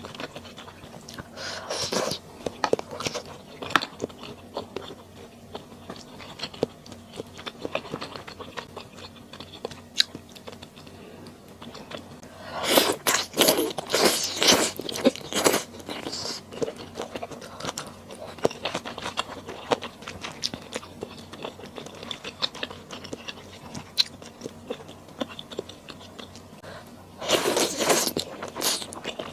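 Close-miked chewing and wet mouth sounds of a person eating, with many small clicks. There are two louder, noisier stretches of eating, one about halfway through and one near the end.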